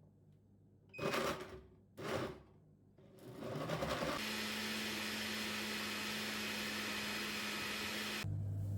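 Two short handling noises, then a small electric motor appliance starts up and runs steadily with a whirring hum. The hum shifts to a lower pitch near the end.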